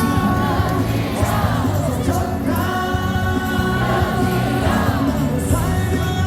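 Stadium cheer song: music over the public-address speakers, with a crowd of fans singing along in chorus.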